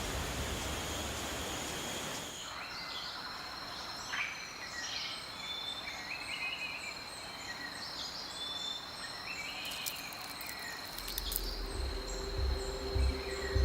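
Tropical rainforest ambience: a steady high-pitched insect drone with a regular high ticking, and birds calling over it. It opens with about two seconds of rushing noise.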